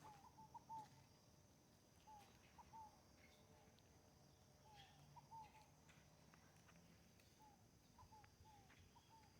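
Faint bird calls: short chirps repeated in small groups every two or three seconds, over a faint steady high-pitched hum like insects.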